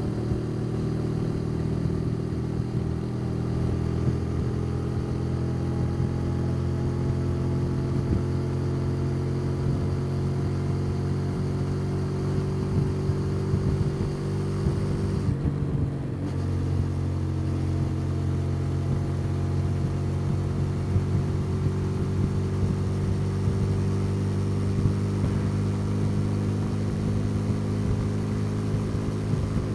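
Custom motorcycle engine running steadily under way, pitch easing down slowly. About halfway through there is a brief break as the rider changes gear, after which the engine runs on at a lower, steady pitch.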